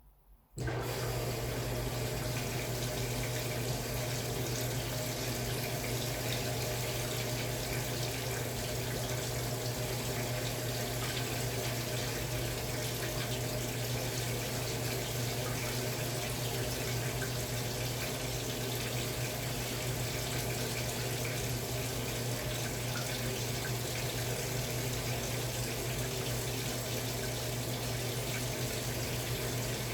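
Samsung Wobble 14 kg top-loading washing machine filling with water: the flow starts abruptly about half a second in and then runs steadily, with a low hum under the rush of water.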